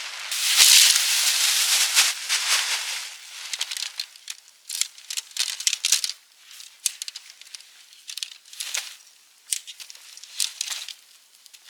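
Rustling and crinkling: a loud rush of rustling in the first three seconds, then a long irregular run of sharp crackles and clicks.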